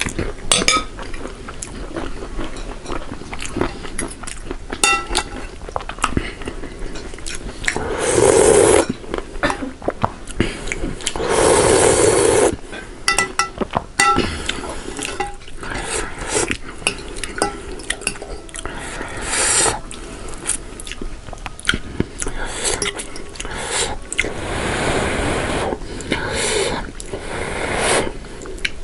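Close-miked eating sounds of spicy ramen noodles and crunchy nimki: chewing and slurping, with cutlery clicking against dishes. Several louder noisy stretches last about a second each.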